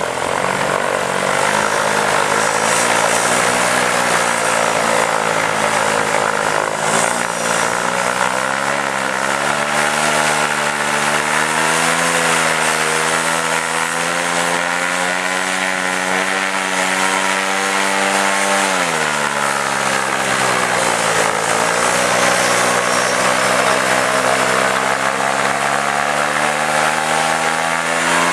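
Paramotor engine and propeller running, the revs wavering up and down; the revs drop about nineteen seconds in and climb back up a few seconds later.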